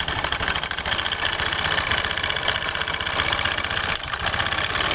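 Honda Beat injection scooter engine running with its CVT cover removed, with a fast rotak-rotak rattle from the CVT. The rattle is the sign of worn, crushed variator rollers.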